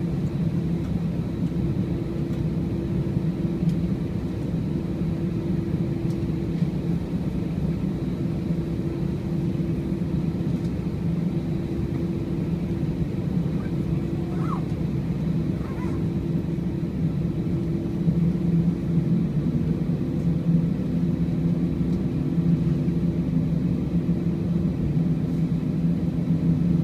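Steady low hum and rumble in the cabin of an Airbus A319 during pushback. About two-thirds of the way through, a second steady tone joins and the sound gets slightly louder.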